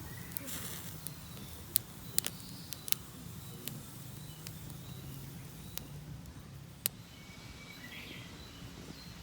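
Small wood fire crackling in a FIREBOX Nano stove, giving several sharp, scattered pops.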